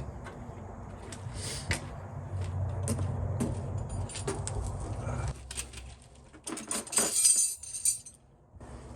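Metal hand tools clinking and rattling, with scattered sharp clinks and a louder burst of rattling about seven seconds in. A low steady rumble underneath stops about five seconds in.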